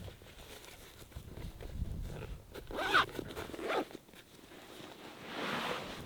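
A zipper pulled in two quick strokes about three seconds in, followed by a softer swishing sound near the end.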